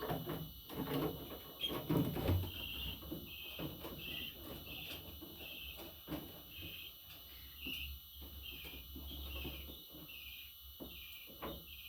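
A bird chirping in an even, repeated rhythm, about two short chirps a second, over scattered rustling and light knocks.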